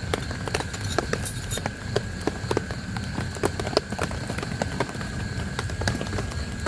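Large raindrops tapping irregularly on a tent, over a low steady rush of rain. A faint steady high tone runs underneath.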